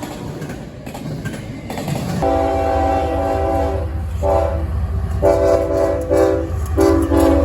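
Diesel locomotive's multi-chime air horn sounding four blasts, long, short, long and a fourth still sounding at the end, starting about two seconds in over the low rumble of the approaching train.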